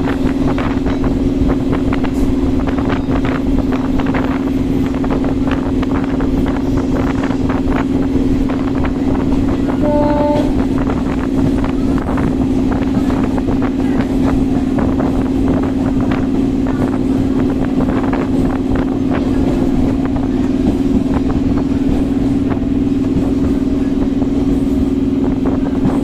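EMU electric local train running at speed: a steady low drone with dense, irregular clatter of wheels over the rails, and a brief two-note tone about ten seconds in.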